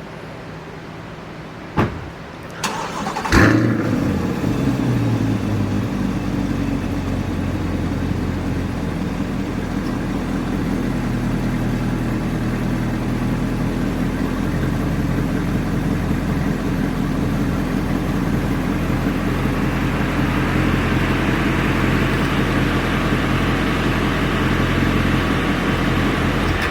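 2024 Chevrolet Corvette Stingray C8's 6.2-litre LT2 V8 on a cold start. A click, then a brief crank, then the engine catches about three seconds in with a loud flare of revs. It runs a little higher for a couple of seconds, then settles into a steady cold idle.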